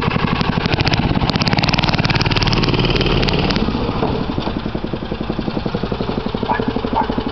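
Mini bike's 3 hp Briggs & Stratton single-cylinder four-stroke engine running with rapid, even firing pulses. It eases off about four seconds in and picks up again near the end.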